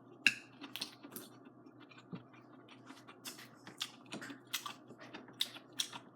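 Close-up eating sounds: chewing string bean braised noodles, with irregular sharp mouth clicks and smacks, the sharpest about a quarter second in.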